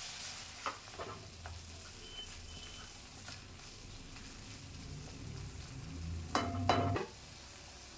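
Radish, shallots and tomatoes frying with a light sizzle in an iron kadai, stirred with a wooden spatula. A few taps of the spatula on the pan come in the first second and a half, and a louder scraping clatter against the pan comes about six seconds in.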